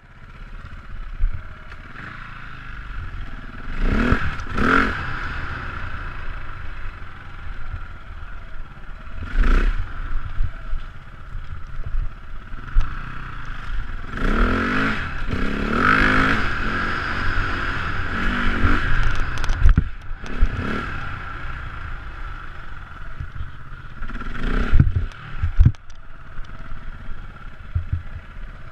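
Motocross dirt bike engines running and revving hard in repeated bursts, about five times, between steadier running.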